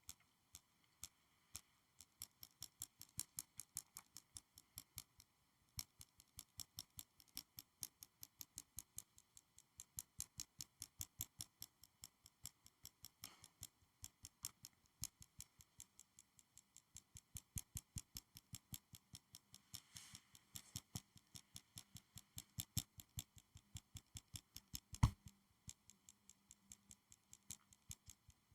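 Faint, fast clicking and tapping on school supplies, several crisp clicks a second in long runs with short pauses, and one sharper knock about 25 seconds in.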